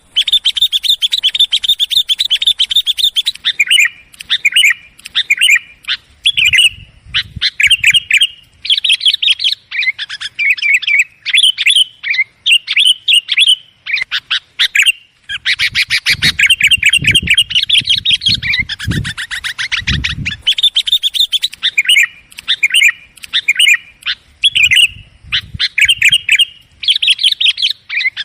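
Sooty-headed bulbuls (kutilang) calling in fast, busy chattering runs of short notes, broken by brief pauses, with a few low bumps underneath. It is the excited bulbul chatter used as a lure call to draw wild bulbuls in.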